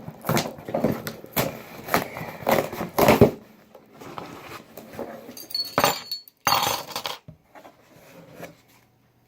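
A cardboard shipping box being opened by hand: packing tape slit with a key, then the flaps and packing peanuts rustling, in a quick run of scraping and rustling noises for about three seconds and two more loud ones near the middle, with a little clinking.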